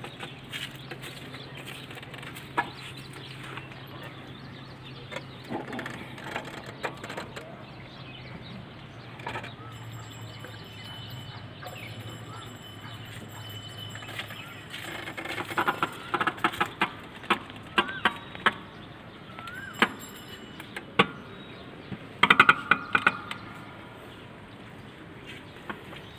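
Chickens clucking in a run of short, sharp calls, mostly in the second half, over a steady low hum.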